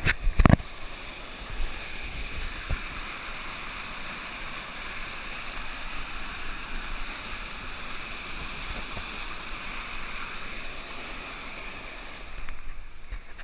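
Waterfall: a steady rush of falling water, with two low thumps in the first half second.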